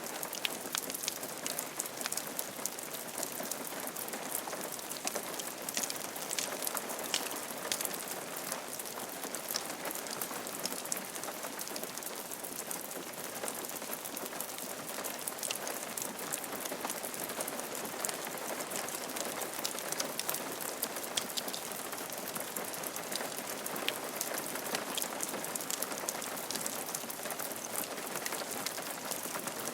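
Steady rain falling on a roof, a continuous patter of many individual drop hits.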